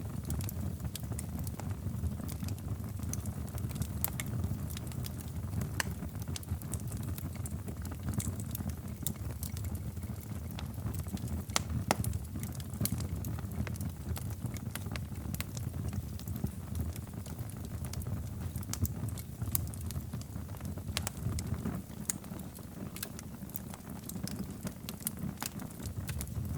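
Wood fire crackling in a fireplace: scattered sharp pops and snaps over a steady low rumble of burning logs.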